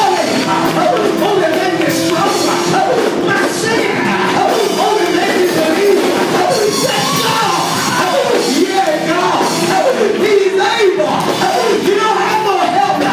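Loud live gospel church music, with a voice singing over held chords from the band.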